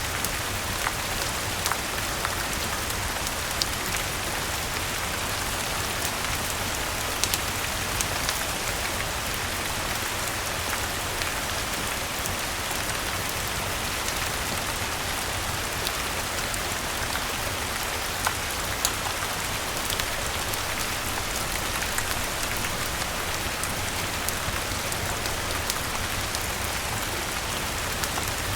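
Steady rain falling in an even hiss, with scattered sharp clicks of drops or fire crackle through it.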